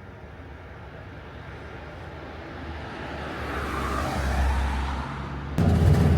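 A road vehicle approaching and passing, its noise swelling for several seconds. Shortly before the end it cuts abruptly to a louder, steady low hum.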